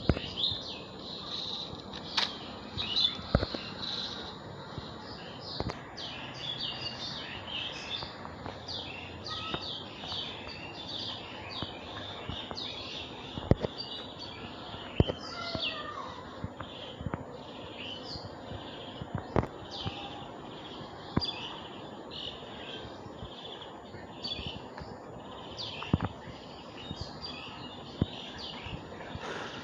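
Birds chirping continuously in quick repeated notes, with a few lower whistled calls and scattered sharp clicks and taps.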